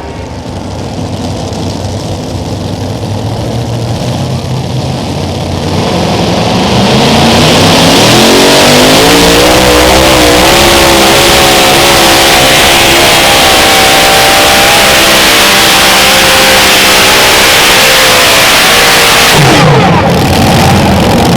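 Unlimited modified pulling tractor's engines at full throttle on a pull. The engines build up over several seconds, rise in pitch and hold flat out very loud, then let off near the end.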